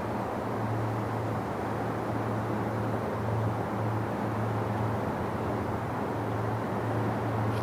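Steady low rumble and hum of a CSX freight train rolling past.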